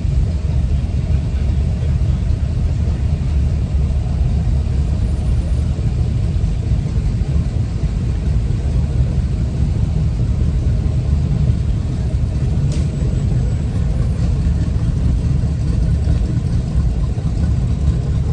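A steady low rumble with a faint click about 13 seconds in.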